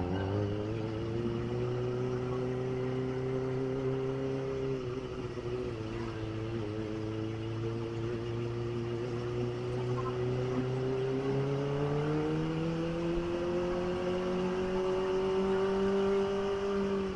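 Kawasaki ZX25R's inline-four engine running at a steady cruise, its pitch climbing slowly in the second half and easing back near the end.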